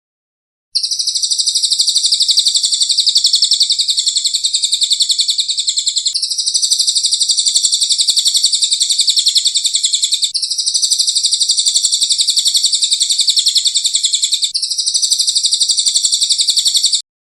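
Recorded wild-bird call used as a masteran (song-training) track: a loud, high, very rapid trill with no pause, in four long stretches joined by abrupt edits, starting suddenly and cutting off suddenly near the end.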